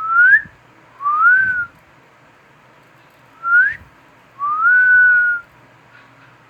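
Cockatiel whistling four clear notes: three short upward-sliding whistles, then a longer one that rises and holds steady.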